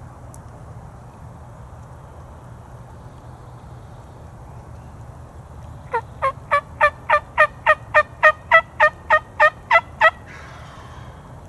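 A series of about fourteen turkey yelps, evenly spaced at roughly three a second. They begin about six seconds in, grow louder over the first few notes and stop about ten seconds in.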